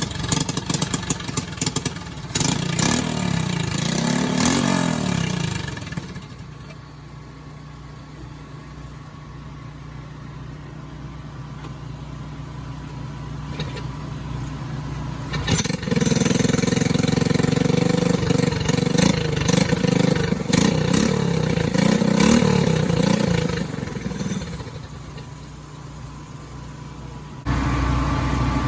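Racing karts with Briggs & Stratton LO206 single-cylinder four-stroke engines coming by in two loud passes, the engine pitch rising and falling as they go through, with fainter engine sound between the passes. About a second before the end the sound changes abruptly to a steady engine hum.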